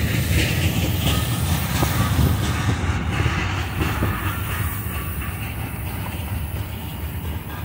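Freight train cars rolling past on the rails, a refrigerated boxcar then open-top gondolas: a steady low rumble with occasional clacks of wheels over rail joints, easing slightly toward the end.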